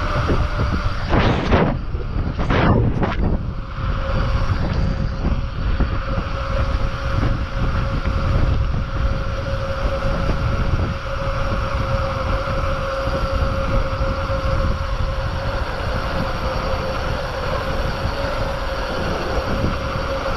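Wind buffeting the microphone, heavy and rumbling, over a steady thin hum, with two falling whooshes about one and three seconds in.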